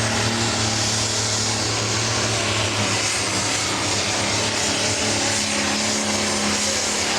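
Pro Stock pulling tractor's turbocharged diesel engine running steadily at high revs, its steady engine note topped by a strong hiss.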